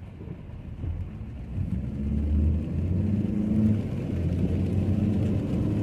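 Car engine and road noise as the car pulls away and picks up speed, growing louder with a steady low engine note about two seconds in.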